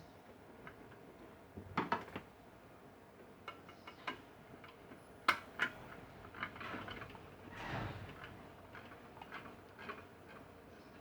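Scattered light clicks and taps of small metal parts and hand tools being handled during a microwave magnetron repair, the sharpest about two and five seconds in, with a short scraping sound near eight seconds.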